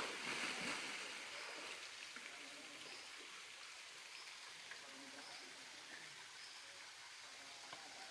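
Waterfall rushing: a steady, even hiss of falling water, with a sharp click right at the start.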